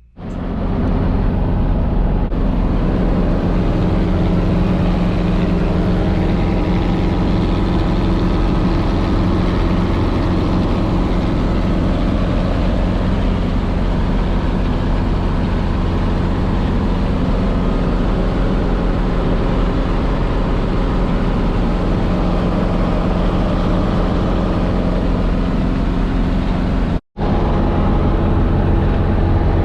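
Guimbal Cabri G2 helicopter's four-cylinder Lycoming piston engine and rotors running steadily, a loud, even drone with a low hum, broken once by a split-second gap near the end.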